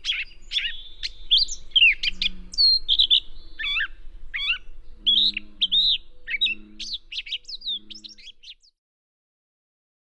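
Gray catbird singing: a rapid, jumbled run of varied squeaky, warbling and sweeping phrases, including phrases mimicked from other species. The song stops abruptly about eight and a half seconds in.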